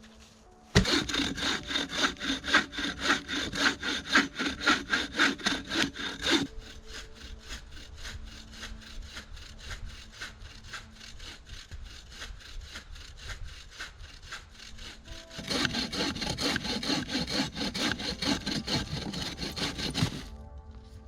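Handsaw cutting a thin wooden pole in fast, even back-and-forth strokes. The strokes are loud for the first few seconds, quieter through the middle, louder again near the end, then stop.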